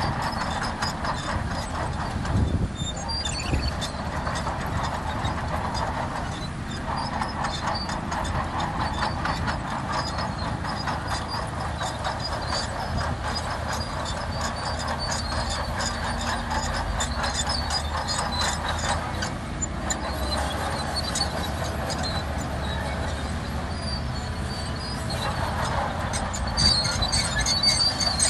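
Crawler bulldozer working, a SHANTUI DH17C2: its diesel engine runs steadily under fast clanking and squealing from its steel tracks. The squeal grows louder near the end.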